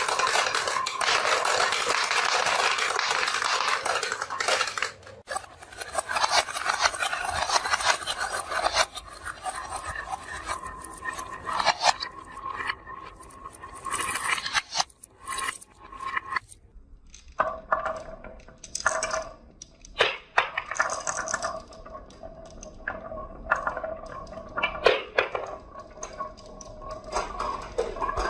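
Marbles rolling and clattering down a wooden HABA marble run. A dense continuous rattle of many marbles for the first four or five seconds gives way to scattered clicks and knocks as single marbles hit the track and each other.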